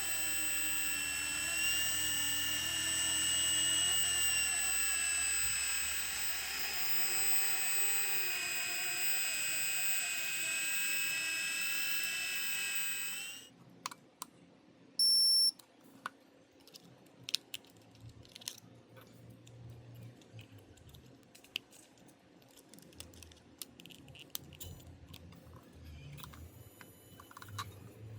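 Micro F150BL V3 RC helicopter's brushless motors whining at a steady high pitch, then cutting off abruptly about halfway through. A single short electronic beep and scattered light clicks follow.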